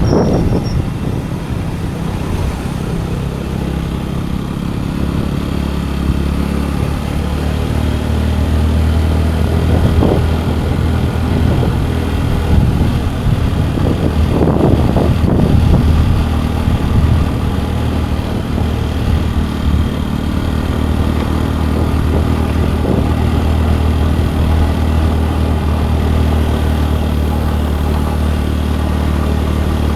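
Scooter engine running steadily while riding, its low hum under road and wind noise, with a few louder rushes around the middle.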